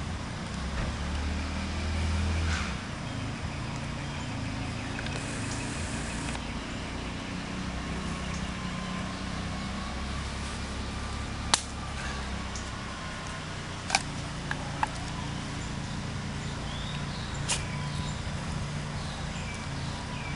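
Outdoor ambience: a steady low rumble, with a few sharp clicks about halfway through and again later on.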